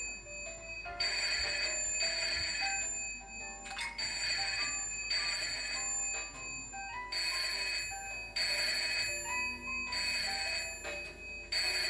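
Cartoon telephone ringing over and over in rings about a second long with short gaps, over a light background music tune.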